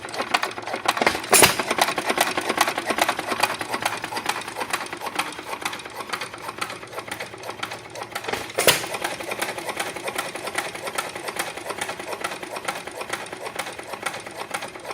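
Foos Jr single-cylinder hit-and-miss gas engine running: it fires with a loud bang twice, about seven seconds apart, and coasts between firings with a quick, regular mechanical clatter.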